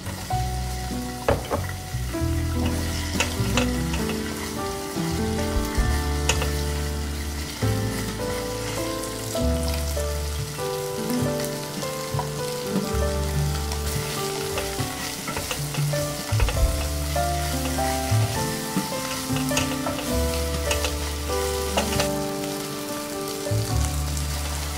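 Red curry paste, chicken and sliced onion sizzling in hot oil in a pot, stirred and scraped with a spatula, under background music with a melodic line and a steady bass.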